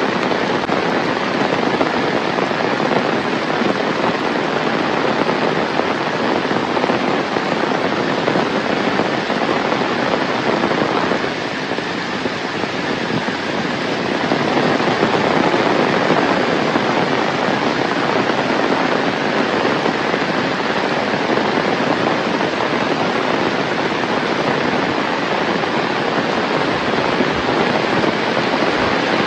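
Heavy rain pouring down steadily, a dense hiss of drops with a crackling edge. It eases slightly for a few seconds about eleven seconds in, then comes back at full strength.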